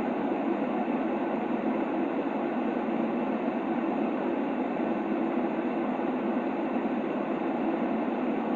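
Steady, even hiss of filtered white noise, shaped so that it sits mostly in the middle and lower-middle range with little deep bass and no high hiss, like a muffled rushing. It does not change at all.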